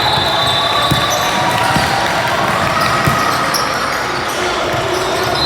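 Basketball bouncing on a gym floor, a few low thumps about a second apart, over the chatter of a crowd in a large, echoing hall.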